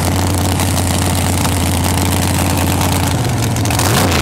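Drag-race Camaro V8 engine idling with a choppy, pulsing beat. About three seconds in, the engine note begins to waver up and down.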